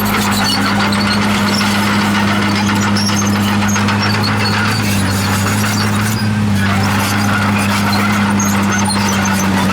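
Komatsu D51PX bulldozer's diesel engine running steadily under load, with high squealing from its steel tracks over the engine hum.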